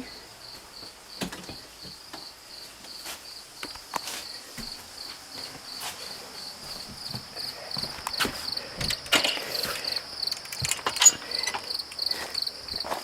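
Insects chirping in a steady, even rhythm of about three pulses a second, with scattered short clicks and knocks over it.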